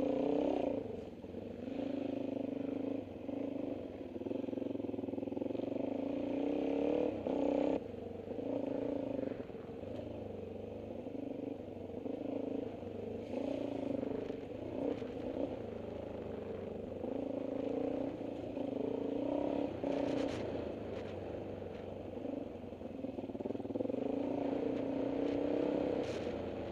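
Dirt bike engine running under load on a rough trail, its pitch rising and falling as the throttle is opened and closed, sounding muffled. A couple of brief knocks come near the end.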